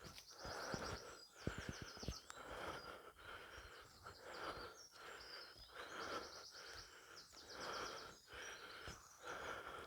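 Faint forest sound: small songbirds singing short, high, rapid trills several times, over a regular rustle of walking about once a second.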